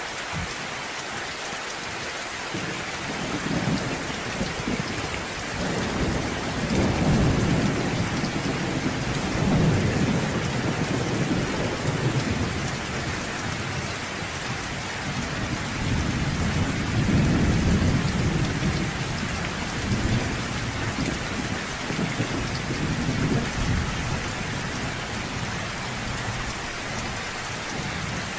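Steady rain falling, with low rolling thunder that swells and fades twice: once a few seconds in and again past the middle.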